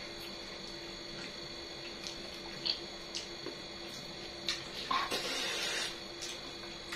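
Quiet mouth sounds of eating: small wet clicks and smacks of chewing, with a short breathy rush about five seconds in, over a steady background hum.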